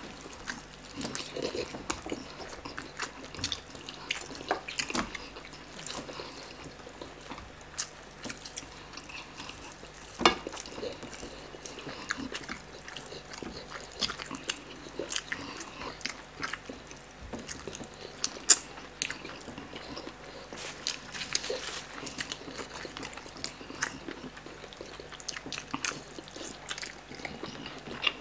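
Close-miked eating of chicken by hand: wet chewing, lip-smacking and meat tearing, a dense run of small moist clicks. A couple of sharper clicks stand out, about ten seconds in and again near eighteen seconds.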